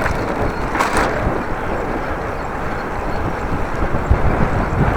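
Strong wind buffeting the microphone of a camera on a moving bicycle, a steady low rumble with gusts, and a brief hiss about a second in.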